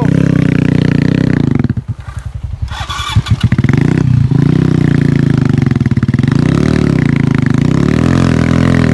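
Motorcycle engine revving hard, dropping off briefly about two seconds in and again around four seconds. It then holds high with the revs wavering up and down.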